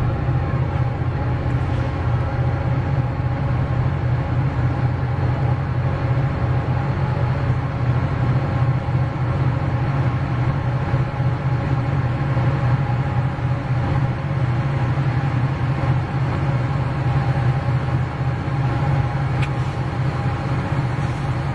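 Railroad ambience from a freight train: a steady low rumble with a constant hum of several steady tones over it.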